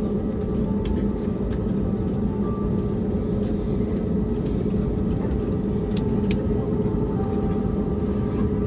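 Steady cabin rumble of an Airbus A321neo after landing, with a constant low hum under it and a few light clicks, around one second in and again about six seconds in.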